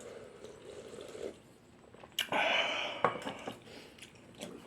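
Eating noises at a dish of beef soup: food and dishes being handled, with a sudden loud noisy burst lasting under a second about halfway through and a sharp click just after.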